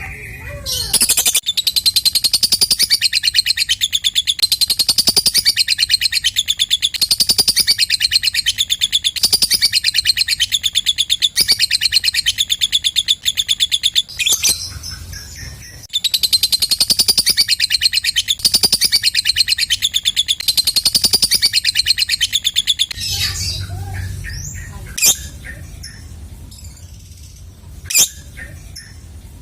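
Lovebird ngekek: a long, rapid run of shrill chattering notes lasting about thirteen seconds, a short break, then a second run of about seven seconds. Near the end only scattered calls remain, with two short sharp sounds.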